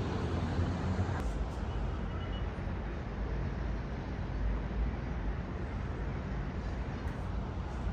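Steady distant city traffic hum, a low even rumble with no distinct events.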